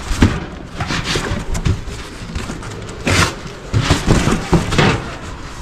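Irregular knocks and clatter of objects being handled, with a louder scraping rush about three seconds in.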